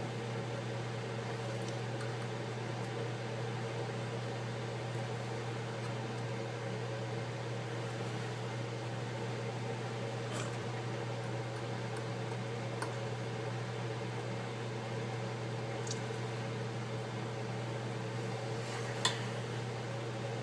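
Steady low mechanical hum of a running machine, like a fan or appliance, with a few faint light clicks.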